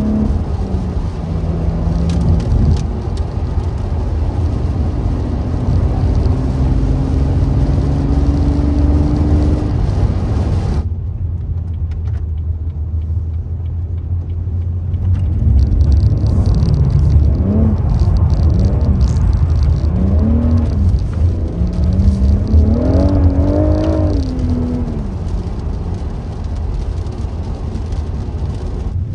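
BMW M140i's turbocharged 3.0-litre straight-six under way over a deep rumble. The engine note climbs steadily for the first ten seconds or so. After a muffled few seconds the engine is revved up and down several times.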